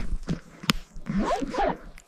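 Rustling, brushing noises of movement through undergrowth, with a sharp click about two-thirds of a second in and a few short grunting vocal sounds near the end.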